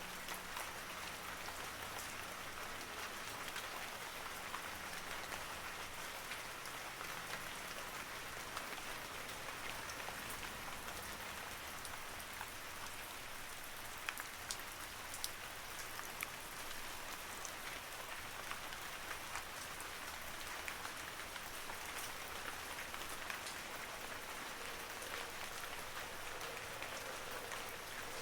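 Steady rain falling, a dense hiss of drops with scattered sharper, louder drop hits, no thunder.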